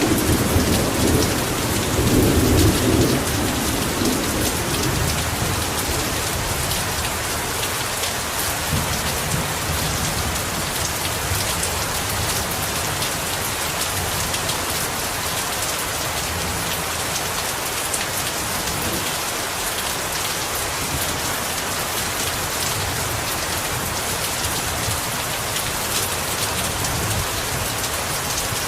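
Heavy rain pouring steadily, with a low rumble of thunder in the first few seconds that dies away.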